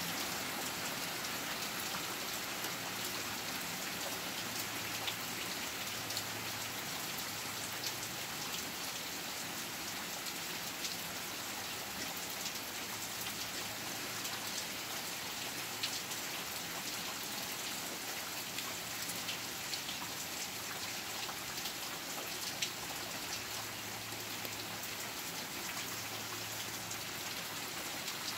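Heavy rain falling steadily, with frequent sharp ticks of single drops striking hard surfaces.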